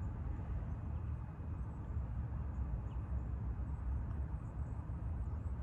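Pondside outdoor ambience: a steady low rumble with a few faint, high bird chirps.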